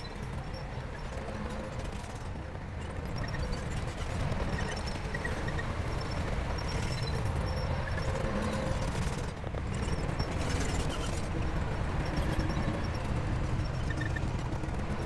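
Heavy diesel engine of a working bulldozer running steadily, growing a little louder about four seconds in.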